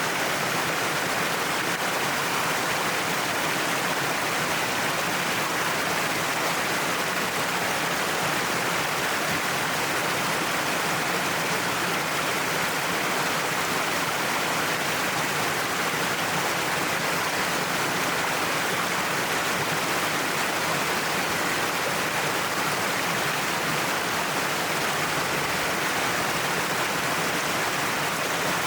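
Waterfall pouring down a cliff, a steady, even rush of falling water.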